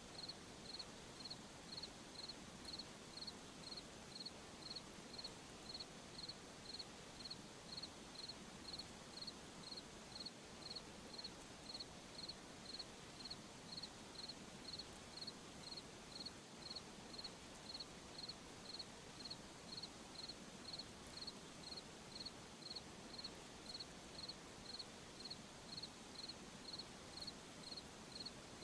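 A cricket chirping in a steady, even rhythm of about two high chirps a second over a faint, steady background hiss.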